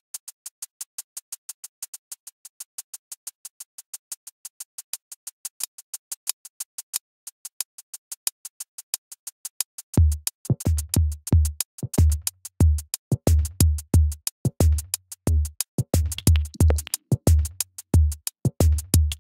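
Drum-machine beat played on a Native Instruments Maschine Studio: a fast, even run of crisp high ticks, about six a second, alone at first. About ten seconds in, deep kick-and-bass thumps join in a syncopated groove.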